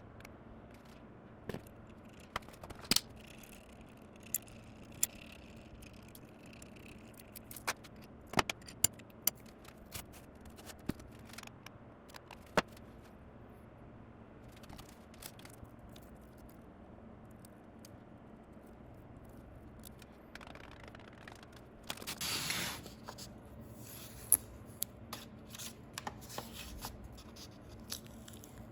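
Scattered small clicks and taps of handwork, with a short scraping rustle about 22 seconds in, over a faint steady hum.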